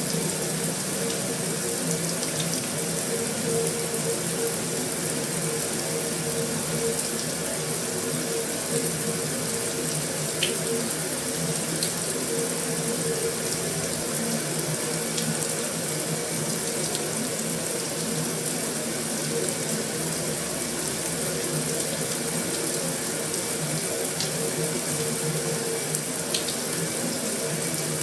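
Heavy rain falling steadily on a metal roof: an even hiss, with a few sharp ticks scattered through it and a steady low hum beneath.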